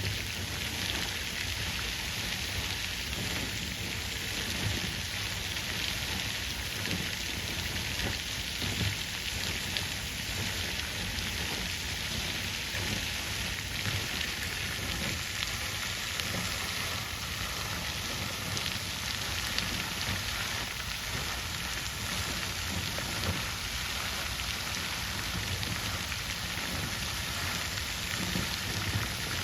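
Water fountain splashing: a steady, even rush of falling water with small irregular spatters, like rain on a surface.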